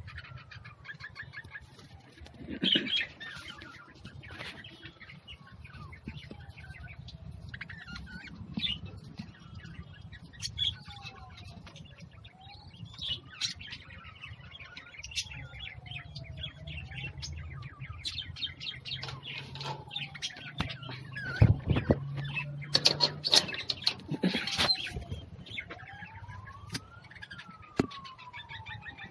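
Many small caged birds chirping over a low steady hum, with a faint tone that slides down and back up about every three seconds. A few loud knocks come about three quarters through.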